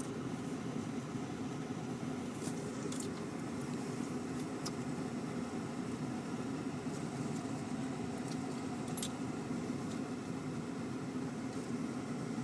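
Steady low mechanical rumble, like a vehicle running, with a few faint clicks.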